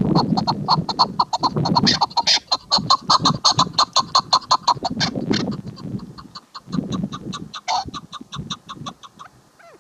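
Chukar partridge calling: a rapid run of short clucking notes, several a second, thinning out and fading over the last few seconds. Low rumbles come and go beneath the calls.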